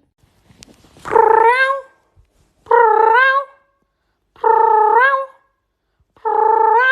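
A pet animal calls four times, evenly spaced about every second and three-quarters, each call a drawn-out steady note that rises at the end.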